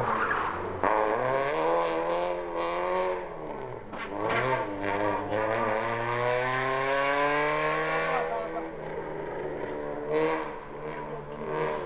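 Rally car engine revving hard under acceleration. The note climbs, dips briefly about four seconds in, climbs again for several seconds and then falls away to a lower, steadier note near the end.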